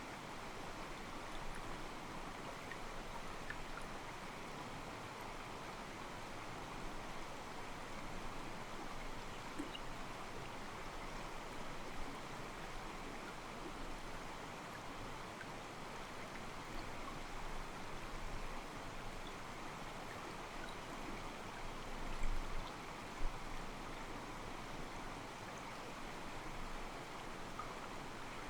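Small mountain stream flowing over rocks, its water sloshing steadily and softly. Two brief low thumps come about three-quarters of the way through.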